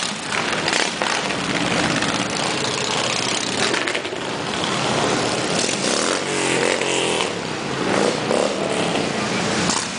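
Many motorcycles riding past one after another in a long column, engines running steadily with some revving. About six seconds in, one engine's pitch rises and falls as it passes.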